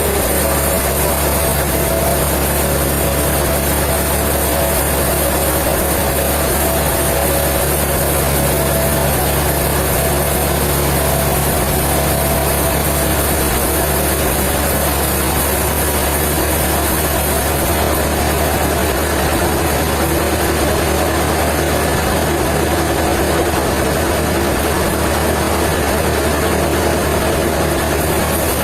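Sawmill machinery running with a steady, even drone and low hum, unbroken throughout.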